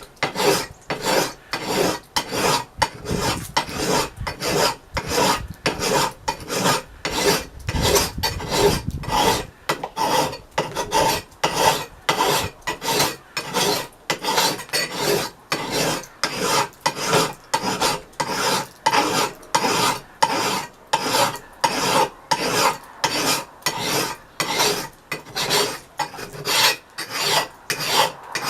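Hand file scraping across the steel edge of an old axe head in steady, even strokes, about two a second, taking the edge bevel down to bare metal.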